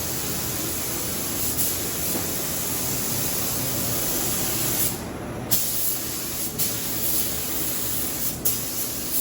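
Handheld gas torch flame burning with a steady hiss, heating the spark plug boot. The hiss breaks off briefly a few times.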